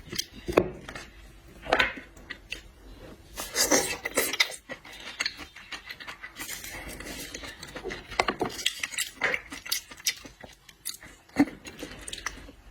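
Cutlery and dishes clinking and scraping in an irregular run of sharp clicks, with a few louder knocks.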